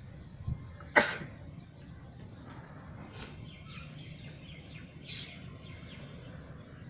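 Pet parrot calling: a sharp, loud sound about a second in, then a few softer, short high-pitched calls.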